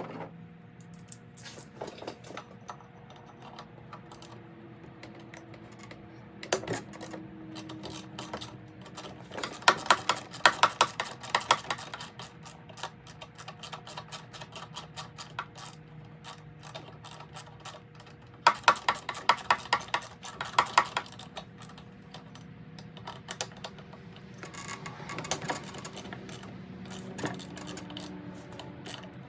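Hand tools clicking rapidly in short bursts, three times, while a small two-stroke leaf blower is being taken apart, over a faint steady hum.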